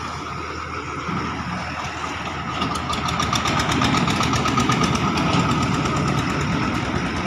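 Single-cylinder diesel engine of an engine-driven farm trolley (kutta gari) running with a steady whine. About two and a half seconds in it grows louder, with a fast, even clatter.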